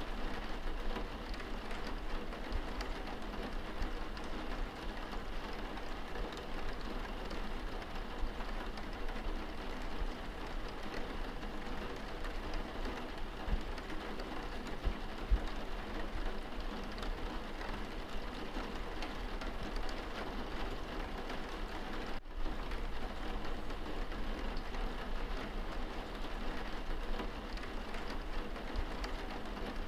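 Steady rain hitting window glass, heard from inside the room, with a momentary drop-out about two-thirds of the way through.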